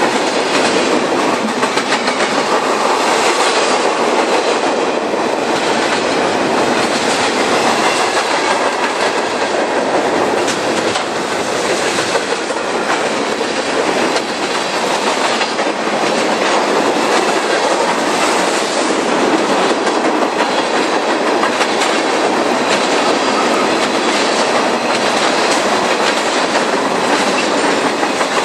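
Railroad cars rolling steadily past at close range, a continuous loud rumble of wheels on rail with clicking as the wheels cross rail joints.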